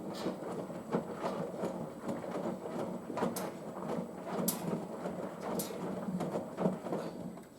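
Washing machine drum slowly tumbling a sudsy load of towels in the main wash: wet laundry sloshing and flopping, with irregular knocks and clunks, then the drum stops.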